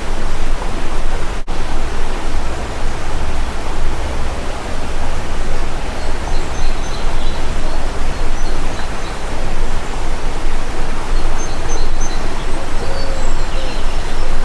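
Steady, loud rush of running water, with faint, short, high bird chirps scattered over it. There is a brief dropout about a second and a half in.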